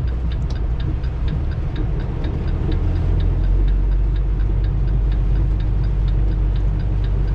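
Semi truck's diesel engine running, heard from inside the cab, pulling harder about three seconds in as the truck swings through a wide turn. A steady fast ticking, about four ticks a second, runs over it from the turn signal.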